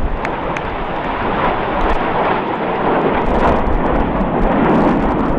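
Jet aircraft engines passing, heard as a steady rushing roar that swells a little in the second half.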